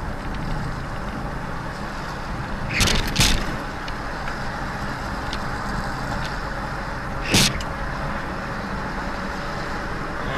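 Car driving: steady road and engine noise, broken by two loud bangs close together about three seconds in and a single bang about seven seconds in.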